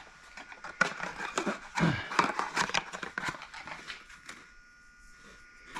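Irregular clicks and light knocks of metal parts and tools being handled on a workbench, busy for the first few seconds and then quieter.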